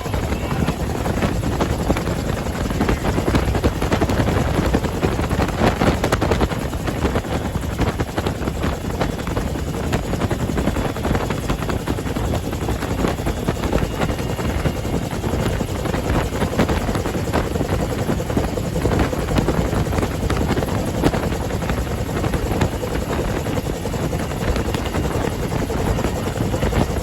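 UH-1H Huey helicopter running steadily, its Lycoming T53 turbine and the rapid chop of the two-bladed main rotor making a loud, unbroken din.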